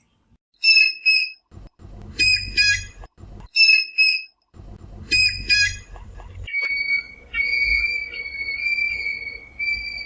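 Whistling heron (Syrigma sibilatrix) calling with clear, high whistles. The first notes are short and come singly or in quick clusters; from about six and a half seconds in they become longer, drawn-out level whistles.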